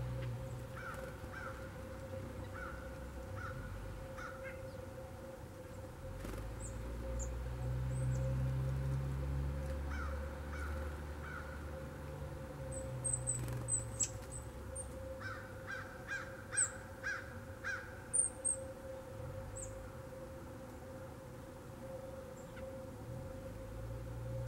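Birds calling outdoors in groups of repeated calls, several in a row, the longest run about two thirds of the way in, with short high chirps from small birds between. Under them run a steady low rumble and a faint steady hum.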